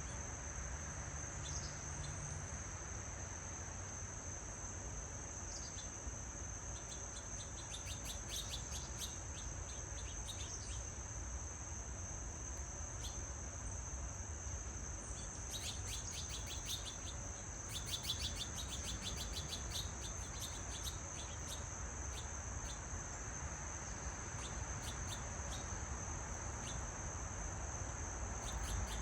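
Crickets trilling in a steady, unbroken high-pitched drone, with spells of rapid bird chirping over it, about a third of the way in and again around the middle.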